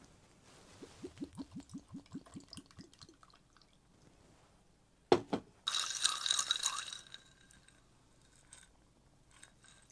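Hwayo soju glugging out of its bottle as it is poured, about six glugs a second for some two seconds. Then a sharp knock, and about a second of bright, noisy clatter.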